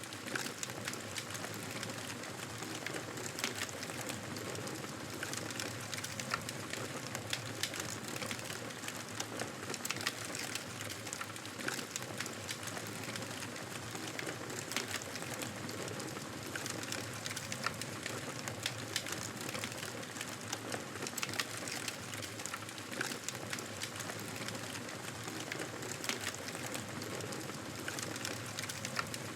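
Wood fire crackling in a fireplace: a steady hiss sprinkled with many small irregular pops and snaps.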